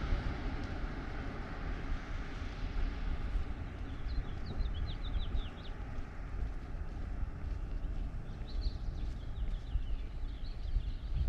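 Steady low traffic rumble, with a vehicle passing and fading away at the start. A small bird sings a quick run of short chirps about four seconds in and again near the end.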